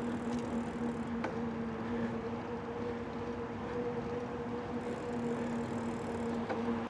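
Steady rolling and wind noise from a bike ride, with a constant low hum and a couple of faint clicks. It stops abruptly at the end.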